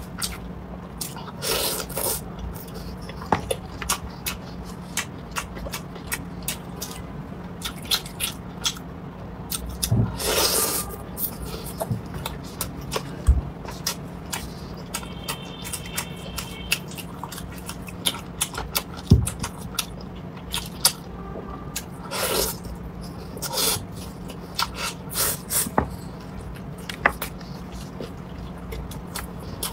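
Close-miked eating of braised chicken wings: wet, sticky chewing and lip smacking in scattered irregular clicks, with a few longer wet noises about two, ten and twenty-two seconds in as meat is pulled from the bone.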